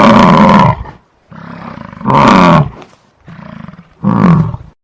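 Bison bellowing: three loud, deep calls about two seconds apart, each falling in pitch, with quieter grunting sounds between them.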